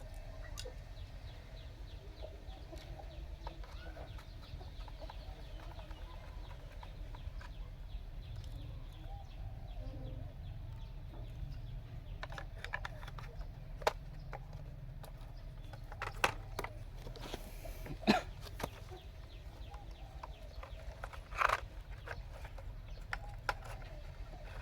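Chickens clucking over a steady low hum, with a few sharp clicks in the second half.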